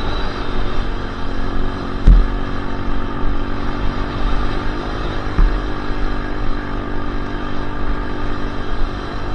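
Dirt bike engine running at a fairly steady speed while being ridden, with a sharp knock about two seconds in.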